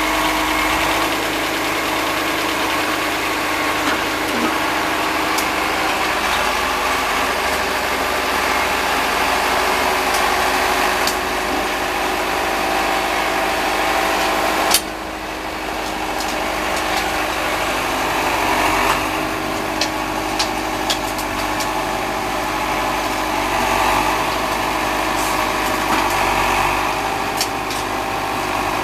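Diesel engine of a 1974 Case David Brown 1212 tractor running steadily while working a tractor-mounted Erskine snowblower. There is one sharp click about halfway through and a few light ticks a few seconds later.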